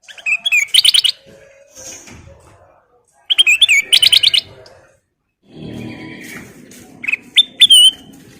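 Kutilang emas bulbul singing in three quick phrases of rapid, clear, repeated notes, about three seconds apart.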